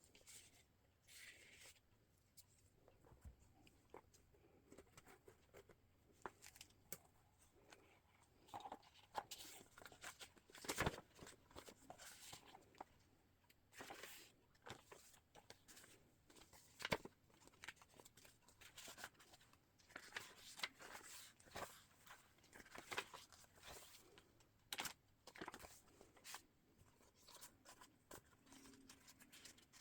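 Paper pages and card tags of a handmade journal being handled and turned: faint rustling and crinkling with scattered sharp taps, the loudest about eleven seconds in and again about seventeen seconds in.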